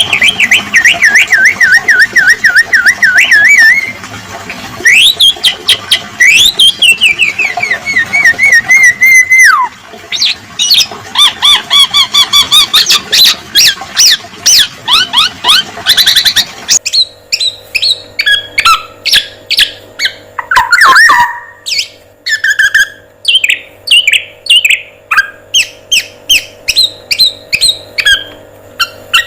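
Recorded song of a male black-naped oriole (kepodang emas) with filler calls, loud and varied: wavering trills that slide down in pitch, then fast runs of sharp chirps. About two-thirds of the way in, the background changes and a steady hum sits under the calls, as at a splice between recordings.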